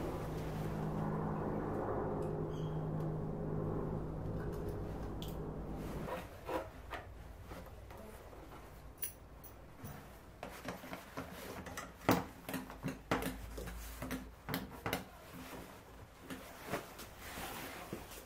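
A steady hum stops about six seconds in, followed by irregular metallic clicks and clinks of hand tools being handled during motorcycle maintenance.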